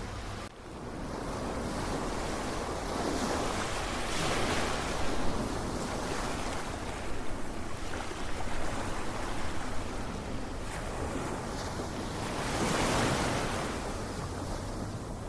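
Ocean waves breaking and washing on a shore in a steady hiss. Two waves swell louder, a few seconds in and again near the end.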